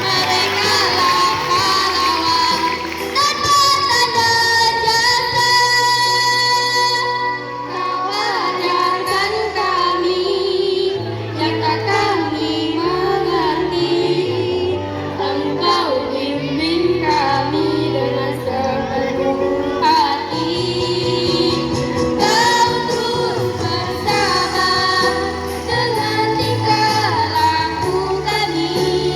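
A girls' choir singing a song over backing music, with a bass line that steps between held notes.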